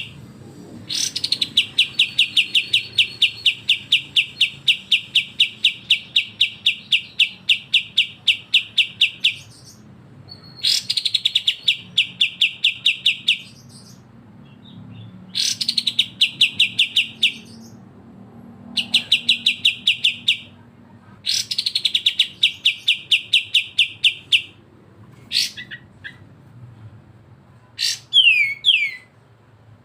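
Songbird giving rapid runs of harsh, evenly repeated notes, several a second, a long run of about eight seconds followed by three shorter runs, then a few quick falling whistles near the end. This is the besetan-style chatter used in bird-song training recordings.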